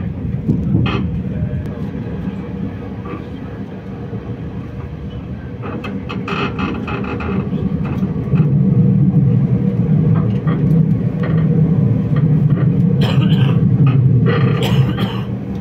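Moving passenger train heard from inside the carriage: a steady low rumble of the wheels running on the track, growing louder about eight seconds in.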